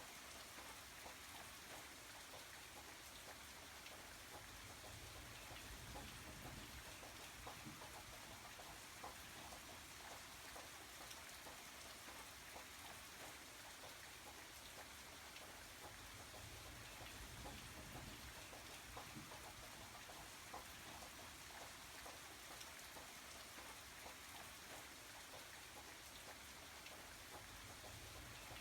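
Rain sound: steady light rain, a faint constant hiss with many small drop ticks and gentle low swells.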